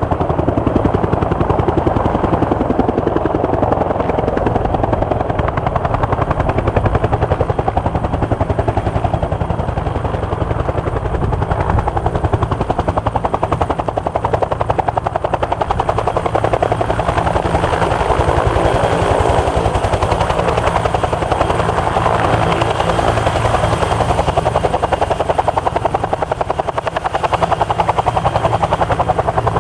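UH-1J helicopter's turbine and two-blade main rotor running close by, a fast, even beat of the blades that holds steady throughout.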